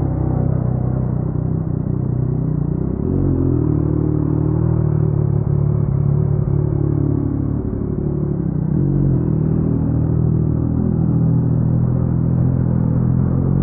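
Yamaha MT-09's crossplane inline three-cylinder engine through an Akrapovic carbon full-system exhaust, rumbling at low riding speed. The engine note shifts gently with the throttle and rises a little about three seconds in.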